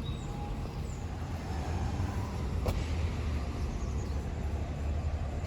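Steady low rumble of distant city traffic, with a few brief bird chirps and a single sharp click about halfway through.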